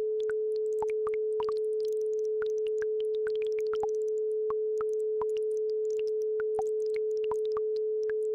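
A steady pure tone at 432 Hz, with a babbling brook's quick watery plinks and bubbles scattered over it.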